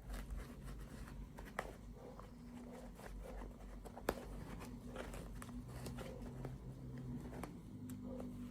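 Hands handling small plastic toys and packaging: scattered light clicks, taps and rustles, with two sharper clicks near the start and about four seconds in.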